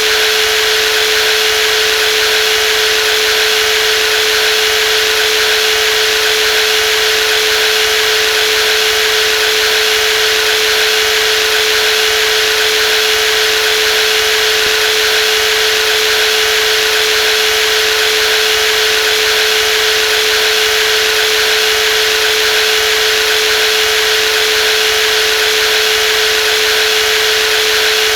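Brushless jigsaw running steadily at constant speed, a continuous motor whine with one strong steady tone and a hissy buzz above it, unchanging throughout.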